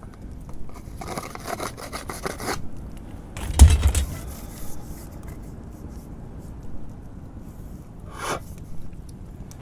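Scraping and rubbing on a bamboo flute body in a run of quick strokes, then a loud hollow knock about three and a half seconds in and a short scrape near the end.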